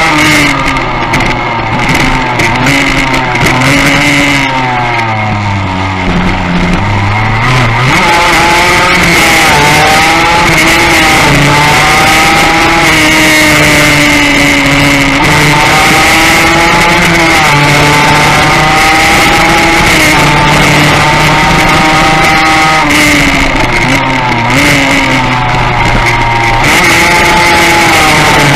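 Yamaha racing motorcycle's engine at full race speed from an onboard camera: the revs drop away through a slow section about five seconds in, then climb again in repeated rising sweeps as it pulls up through the gears. A steady high whine runs underneath.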